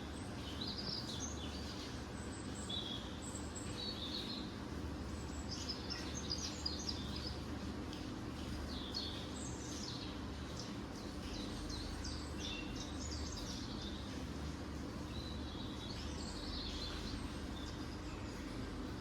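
Small birds chirping on and off in short high calls, over a steady low background hum.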